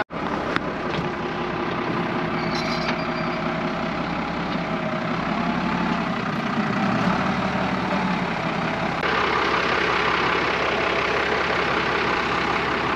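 Valmet tractor's diesel engine running steadily, a little louder from about nine seconds in.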